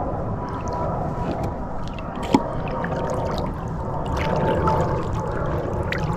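Lake water sloshing and splashing as a landed bass is held in the water to revive her before release, with a sharp knock about two seconds in.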